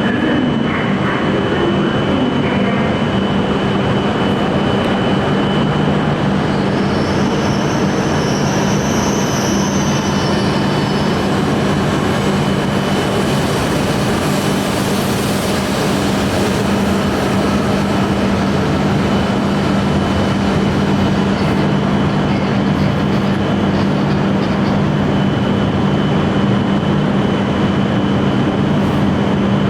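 E8 series Shinkansen train arriving slowly at a platform: a steady electric hum over running noise, with a brief high-pitched wheel squeal about seven to eleven seconds in.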